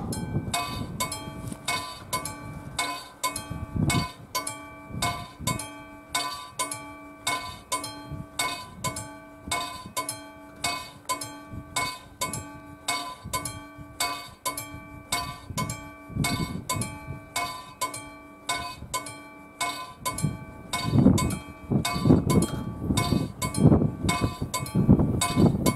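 Railway level crossing warning bell starting to ring as the crossing activates, striking steadily about two to three times a second with a bright metallic ring. Low rumbling swells of noise come in under it near the end.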